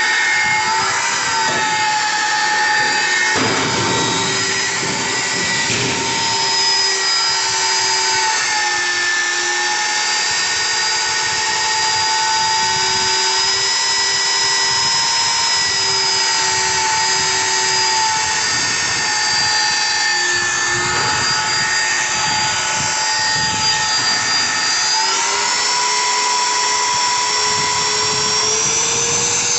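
Electric power tool motor running continuously, a steady whine over a grinding hiss. Its pitch dips slightly a few times, around 9 and 21 seconds in, and rises again near the end, as the load on the tool changes.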